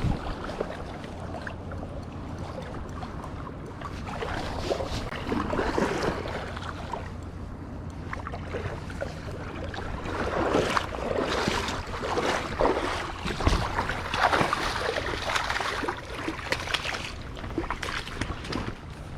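Water sloshing and splashing in irregular rushes, over a low rumble of wind on the microphone.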